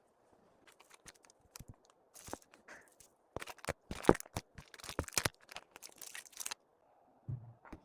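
Irregular crinkling, rustling and tearing of packaging being handled, loudest around the middle, followed near the end by a short low thump.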